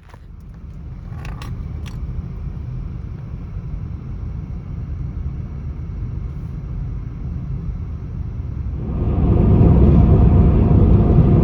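Wind buffeting the microphone: a loud, ragged low rumble that swells into a stronger gusting rush about nine seconds in.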